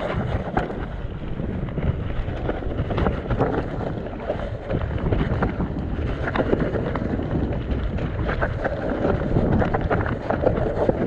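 Mountain bike riding down a wet, muddy trail: wind rushing over the microphone, tyres churning through mud, and the bike rattling and knocking in quick, irregular clicks over the rough ground.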